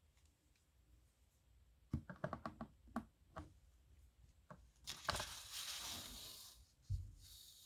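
Dip nib pen and paper sounds: a quick run of short scratchy strokes, a single tick, then a longer rasping rustle of about two seconds and a soft knock near the end.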